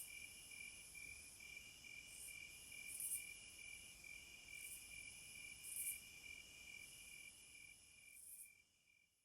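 Insects chirping faintly, a cricket chorus: a steady, rapidly pulsed chirp with brief higher buzzing bursts every second or so, fading out near the end.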